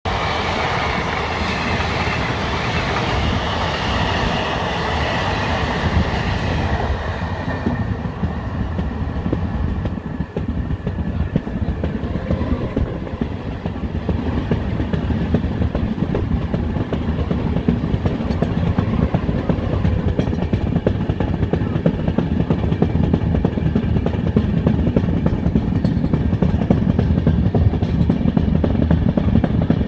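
Running sound of a speeding LHB passenger coach: a steady low rumble of wheels on rail with fine clicks over the joints. For the first several seconds a train passing close on the next track adds a loud rushing noise, which falls away about seven seconds in.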